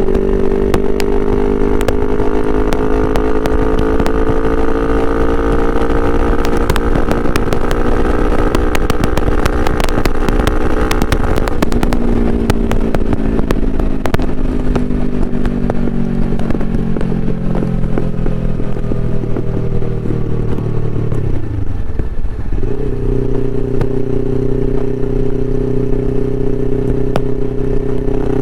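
Suzuki GS500E's parallel-twin engine through a Takkoni aftermarket exhaust, pulling steadily higher in revs with a burst of sharp crackles near the top. It then winds down slowly on the overrun, dips sharply once, and settles into a steady idle near the end.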